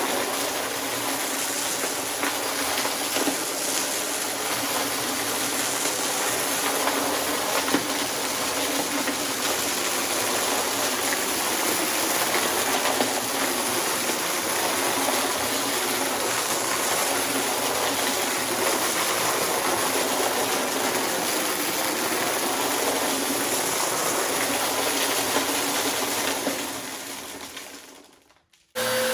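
Upright vacuum cleaner running steadily as it picks up mess-test debris from stacked rugs. The sound fades out near the end.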